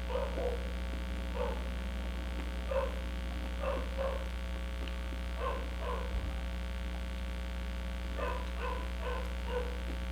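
Close-up chewing of crispy chicharon bulaklak (deep-fried pork intestine): a string of short, soft chews and mouth sounds, one every half second to a second, over a steady electrical hum.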